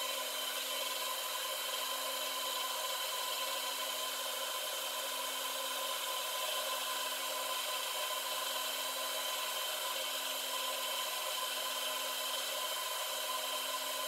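Metal lathe running steadily, a constant machine hum with a few fixed whining tones over an even hiss.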